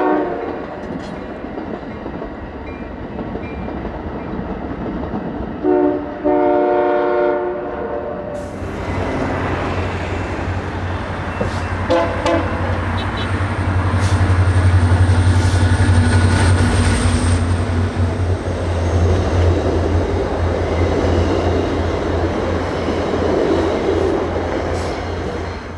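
Passenger diesel locomotive, an EMD F40-series unit, sounding its chime horn: a blast ending just as it begins, then a short blast and a longer one about six seconds in. From about eight seconds the train passes close by, its engine running with a steady low drone under loud wheel and rail noise, loudest midway.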